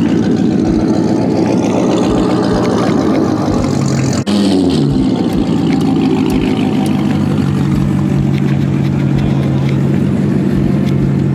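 Car engine running steadily, its pitch dropping as the revs fall about four seconds in, then holding a steady drone.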